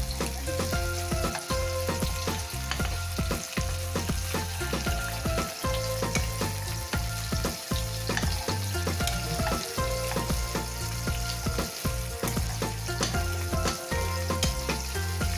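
Sliced shallots, ginger and lemongrass sizzling in hot oil in a wok during sautéing, stirred with a spatula that scrapes and taps the pan many times. A steady low rumble runs underneath.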